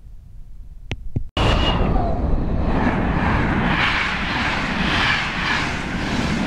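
Passenger train passing the platform at speed: a loud, steady rush of wheel and air noise that starts abruptly about a second and a half in. Before it, faint background with two short clicks.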